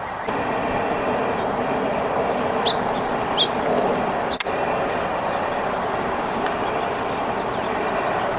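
A steady rushing background noise with a few brief, high bird chirps over it in the first half.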